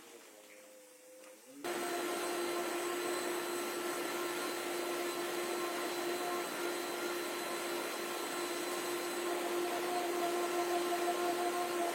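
A motor-driven workshop tool or blower switches on suddenly just under two seconds in and runs at a steady speed: a rush of air with a constant whine.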